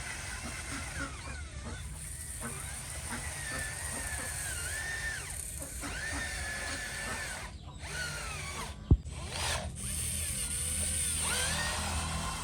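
Small electric motors and gearboxes of radio-controlled construction models whining, the pitch rising and falling as they speed up and slow down, with a sharp click about nine seconds in.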